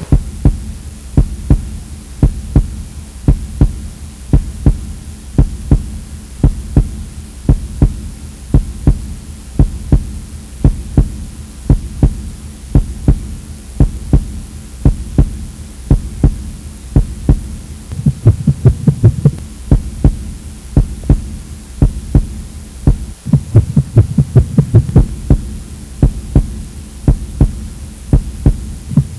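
Heartbeat sound effect: a steady run of soft double thumps over a low droning hum, which swells louder twice in the later part.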